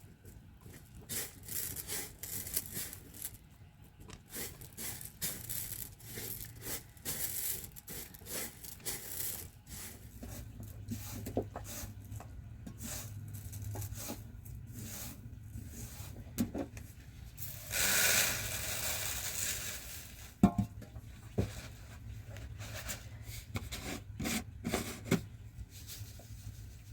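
Close handling sounds: rubbing, scraping and rustling with many small clicks. A louder rushing scrape lasts about two seconds, around eighteen seconds in, followed by a single sharp knock.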